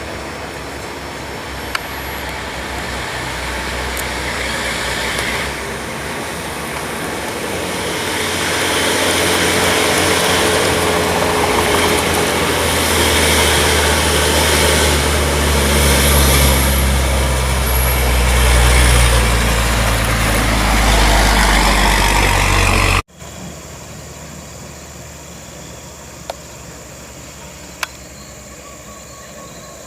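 Loaded logging truck's diesel engine running under load, growing steadily louder as it comes nearer. It cuts off suddenly about two-thirds of the way through, and a quieter, steady vehicle noise follows.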